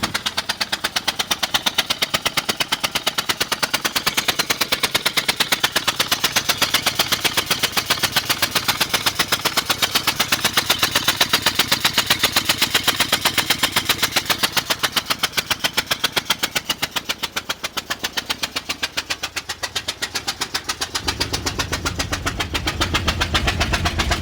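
2000 Ford Explorer engine running with a fast, steady, even ticking knock. This is the strange noise the owner is showing. A deeper engine hum rises near the end.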